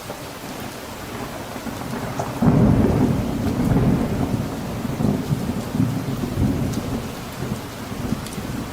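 Steady rain falling, with a roll of thunder that breaks in suddenly about two and a half seconds in, rumbles loudest for a second or two and slowly dies away.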